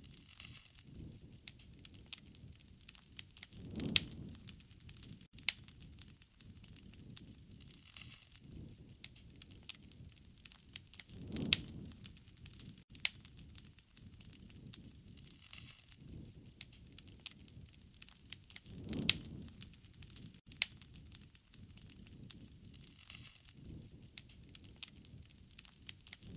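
Wood fire crackling, with sharp snaps and pops scattered throughout. A soft low rush swells up about every seven or eight seconds.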